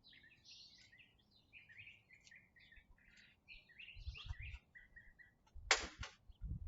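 Songbirds chirping over faint low rumbles, with one short, loud knock near the end.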